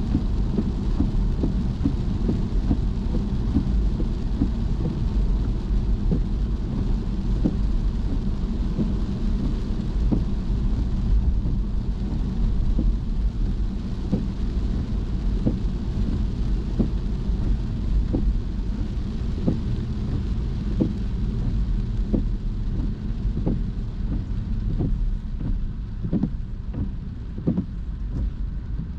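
Rain pattering on a moving car, with many small drop taps over the steady low rumble of the car driving on wet road.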